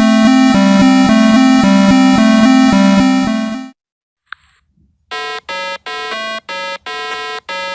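Synthesized electronic sound effect: a loud buzzy tone switching rapidly between two pitches, about four changes a second, stops after about three and a half seconds. After a short pause a series of evenly spaced electronic beeps begins, about two and a half a second.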